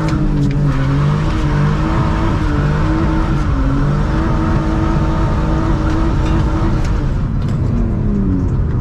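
BMW E46 325Ci's straight-six with an aftermarket header-back exhaust, heard from inside the gutted cabin, running under light throttle; its note wavers, dips and climbs again near the end.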